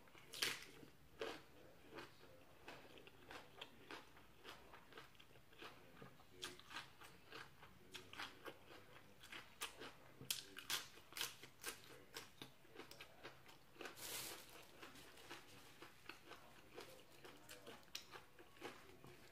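A person biting and chewing crunchy raw vegetables, such as long beans from a spicy Thai long bean salad, close to the microphone. Many short, irregular crunches run all through.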